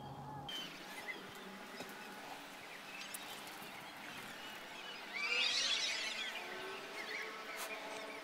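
Birds chirping over quiet outdoor ambience, with a louder flurry of bird calls about five seconds in.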